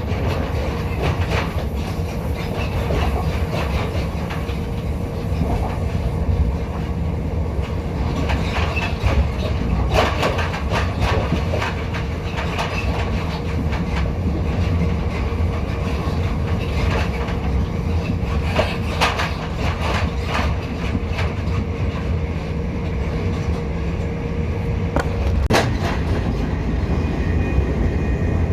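Inside the carriage of a moving passenger train: a steady low rumble of wheels on the track with a constant hum, and clusters of clicks and knocks as the wheels pass over rail joints. Near the end the hum cuts off at a sharp knock and two steady higher whining tones come in.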